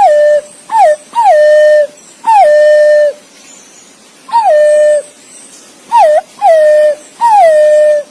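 Green pigeon (punai) calling to others of its kind: about eight loud, clear whistled notes. Each slides down from a higher pitch and then holds level. Some are brief, and others last most of a second.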